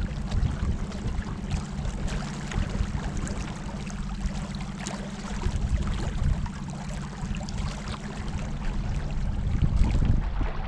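River water splashing and lapping against a kayak, with a steady low hum underneath.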